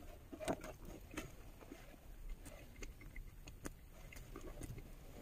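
A person chewing a snack with faint, scattered crunches, a handful of small sharp clicks a second or so apart, over a low rumble.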